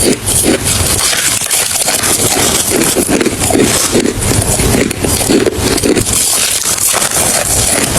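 Hard ice being chewed close to the microphone: loud, continuous crunching with about two to three bites a second.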